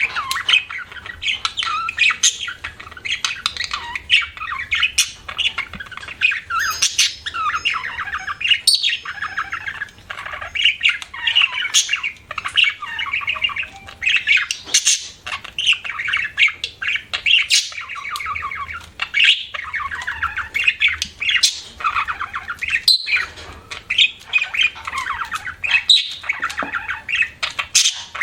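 Budgerigars chirping and chattering: a dense, unbroken run of quick chirps, squawks and warbling notes.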